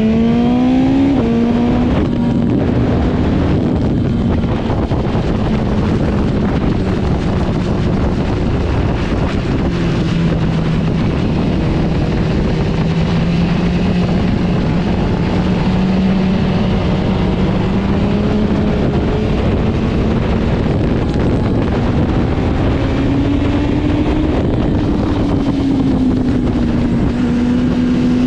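Motorcycle engine running at speed around a race track under heavy wind rush: revs climb sharply about a second in, then the engine note holds and drifts slowly up and down through the laps.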